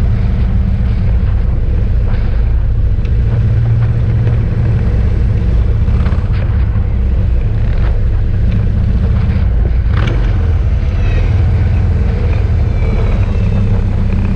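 Many motorcycle engines running together in a steady, loud low rumble as a mass of bikes rides along.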